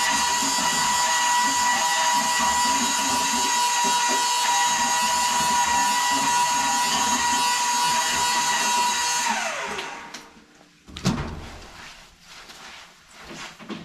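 Power drill running at a steady high speed, its motor whining for about nine seconds, then winding down in pitch and stopping. A few sharp knocks and clanks follow near the end.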